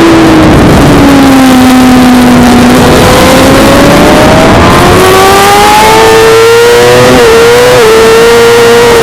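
Suzuki GSX-R600 inline-four engine at racing revs: the pitch falls for the first few seconds as the bike slows, then climbs steadily under acceleration, with two brief dips in pitch near the end. A dense rushing noise runs under it throughout.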